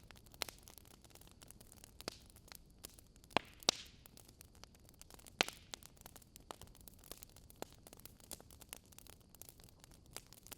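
A barbecue fire burning in a fireplace, crackling softly with irregular sharp pops over a faint hiss, a few louder pops between about three and six seconds in.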